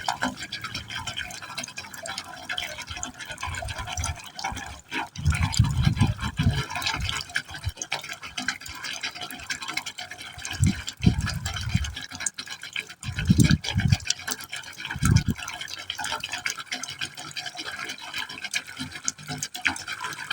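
Water falling into a pipe opening: a steady splashing trickle broken by irregular deep gurgles as the pipe gulps down the water, several times over.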